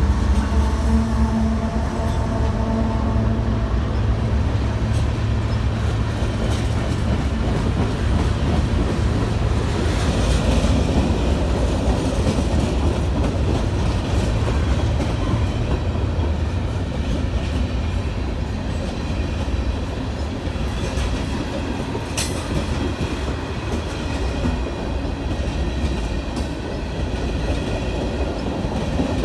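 A train passing close by: a steady heavy rumble of wheels on rail with clickety-clack over the rail joints. A few steady tones fade out over the first few seconds.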